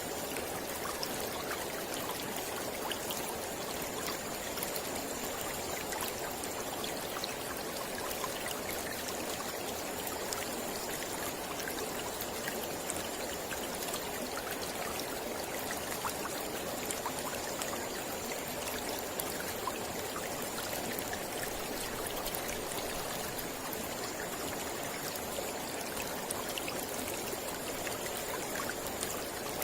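Mountain river flowing steadily over rocks, a constant rushing with fine splashing and trickling, with a faint thin high tone held throughout.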